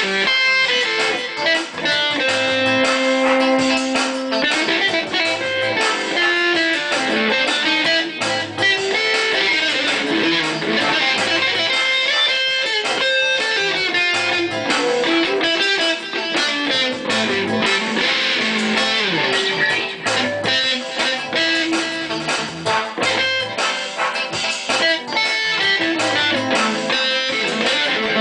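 Guitar music: an electric guitar playing changing melodic lines over a regular low beat.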